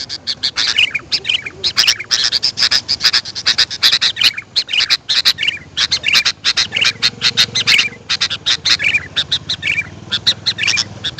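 Sooty-headed bulbuls calling: a dense, continuous run of quick chirps mixed with short falling whistled notes.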